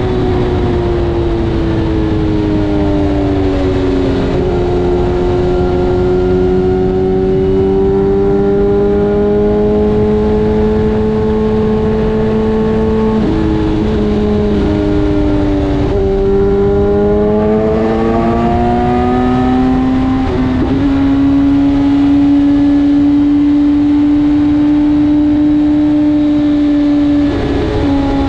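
BMW S1000RR's inline-four engine running under way, its pitch rising and falling with the throttle, with sudden steps in pitch at gear changes about four times.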